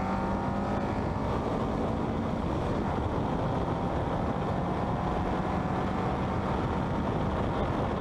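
Westfield kit car's engine and wind rush recorded on board at speed. The engine note rises briefly at the start, then sinks into a steady drone under loud wind and road noise.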